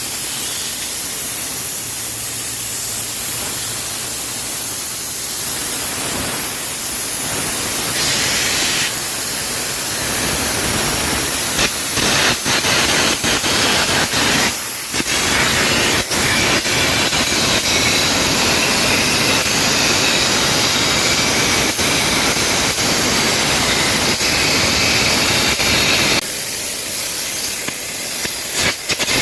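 Air carbon arc gouging: a loud, steady hiss of the compressed-air jet blowing molten metal from the arc, with sharp crackles and pops from the carbon electrode's arc. The sound breaks off briefly about halfway through.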